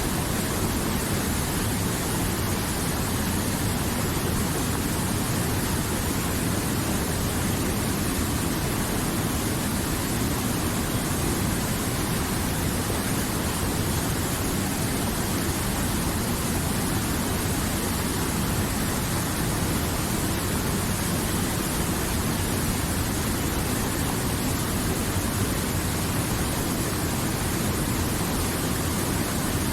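River water flowing, a steady unbroken wash of noise.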